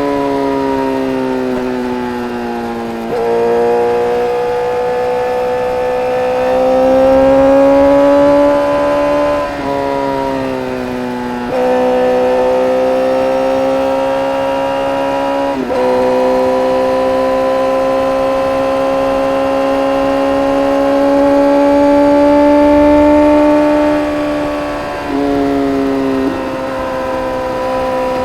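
2010 Honda CBR1000RR Fireblade's inline-four engine, heard from on board while riding, breathing through an Arrow Indy exhaust with its dB killer removed. The engine note holds and slowly rises and falls with throttle, with several sudden steps in pitch as gears change.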